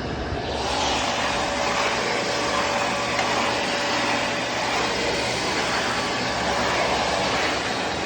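Vacuum cleaner running steadily, its whooshing noise growing louder and brighter about half a second in, with a faint steady hum under it.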